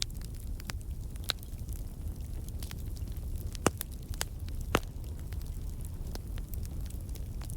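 Wood logs burning in a fireplace: a steady low rumble of flames with scattered sharp crackles and pops, the two loudest pops coming about halfway through.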